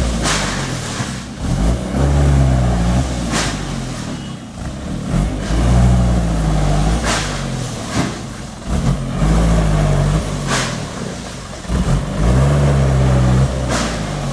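Truck engine revved up and let back down over and over, about four times, a few seconds apart, with short sharp bursts of noise between the revs.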